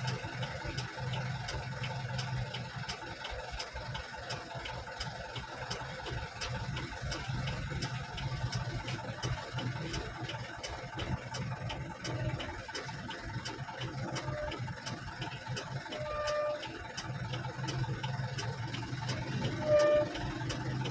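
Truck engine running steadily at low revs, with a regular ticking throughout. A few short horn honks come near the end.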